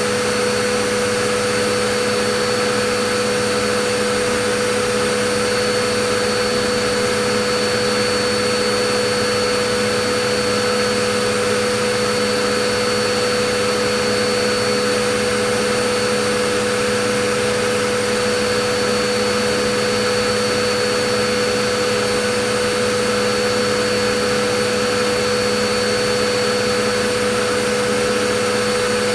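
Vacuum cleaner motor running steadily, an even whooshing hiss with a constant high whine.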